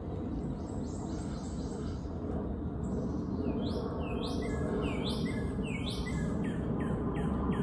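A songbird singing: a series of repeated falling notes starting about halfway in, after fainter high chirps, over steady low background noise.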